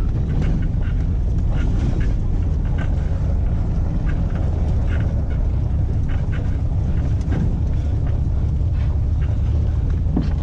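Truck driving on the road: a steady low engine and road rumble with light, scattered rattles.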